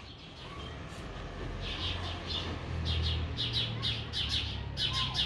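Bird chirping: a quick series of short, high chirps that starts about a second and a half in and comes three or four times a second, over a low steady hum.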